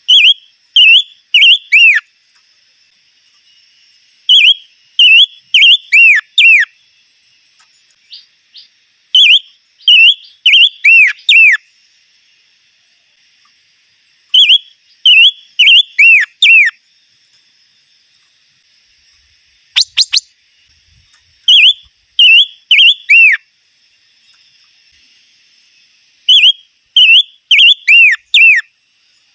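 A songbird singing loud phrases of three to five clear whistled notes, each note sliding down in pitch, a phrase repeated every four to five seconds. Once, about twenty seconds in, a single sharp short note.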